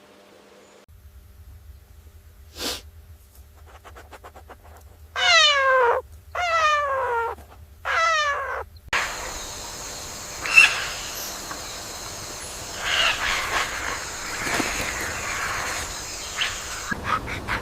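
A cat meowing three times in quick succession, each meow a falling call. After the meows comes a steady hiss with scattered faint sounds.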